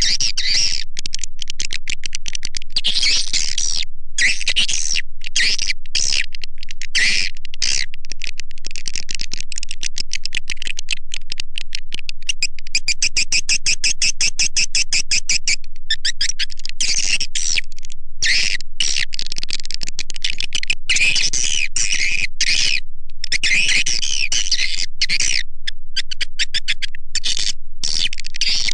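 Swiftlet lure-call recording used in swiftlet farming to draw edible-nest swiftlets into a nesting house: dense, rapid chirping and twittering, high-pitched, at a steady loudness and broken by frequent brief gaps.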